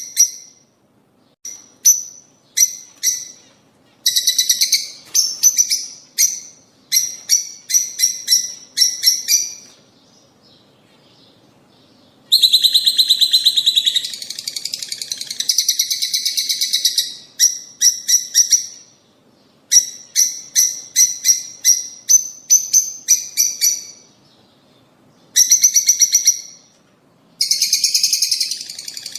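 Lovebirds chirping: runs of sharp, high chirps in quick series, broken by short pauses, with a dense stretch of continuous chattering a little before the middle.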